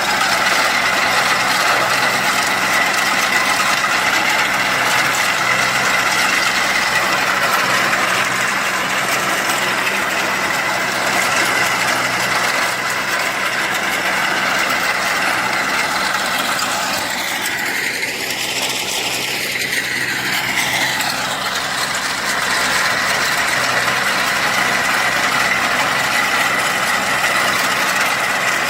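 Kubota mini tractor's diesel engine running steadily under load while working a rotavator, with a continuous mechanical noise. About two-thirds of the way through the tone sweeps briefly, then settles back.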